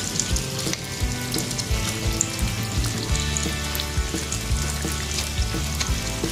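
Small bread rolls deep-frying in hot oil in a pan: a steady sizzle with fine crackling throughout.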